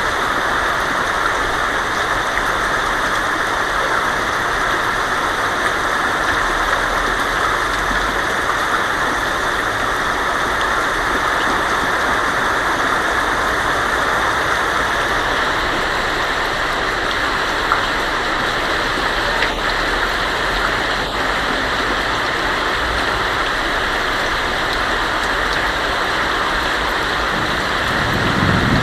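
Heavy rain falling steadily on a tin roof. A low rumble of thunder begins near the end.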